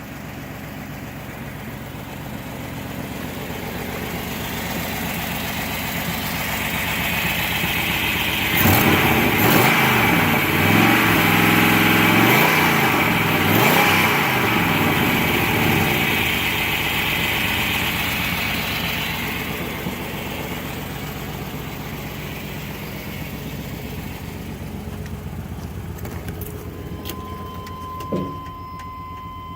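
1997 Chevrolet Suburban's 5.7-litre V8 engine idling, then revved up and down several times from about a third of the way in, before settling back to a steady idle. Near the end there is a short knock, then a steady beep begins.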